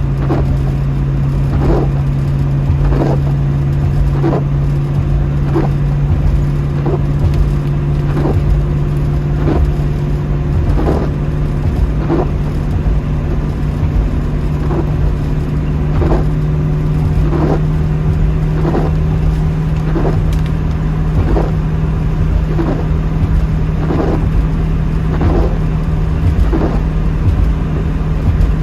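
A 1972 Ford Mustang Mach 1 driving, heard from inside the cabin: a steady engine and road drone with a low hum, and a soft regular stroke about every second and a half.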